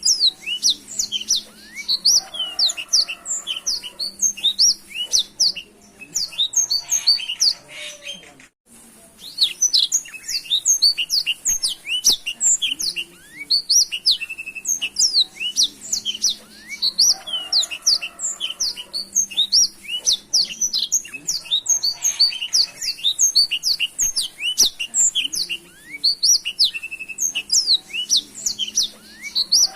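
Black-throated canary (blackthroat) singing a fast, continuous song of high chirps and trills, broken only by a brief gap about eight and a half seconds in.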